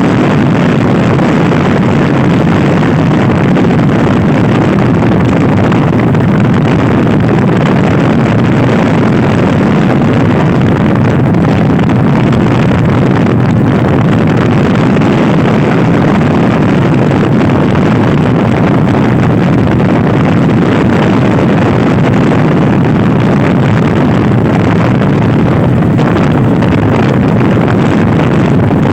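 Loud, steady wind buffeting on the microphone mixed with a Honda Scoopy i scooter's engine running at speed.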